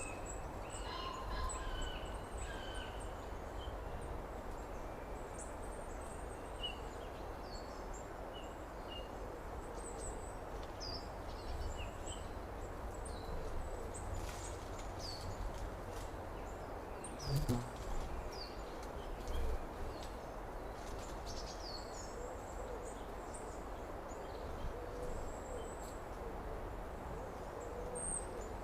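Summer outdoor ambience: many short, scattered bird chirps and calls over a steady low rumble and background hiss, with a brief louder low sound a little after halfway.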